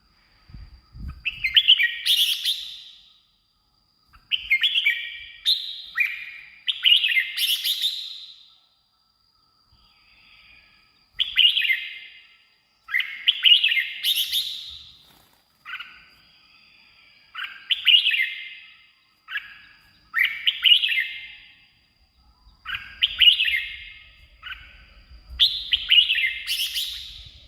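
Red-whiskered bulbul singing: short, loud, warbled phrases, about ten of them, each a second or so long with brief pauses between.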